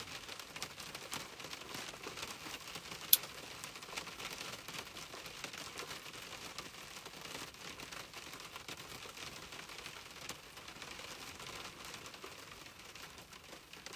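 Steady rain pattering, a dense run of small drop ticks, with one sharp click about three seconds in.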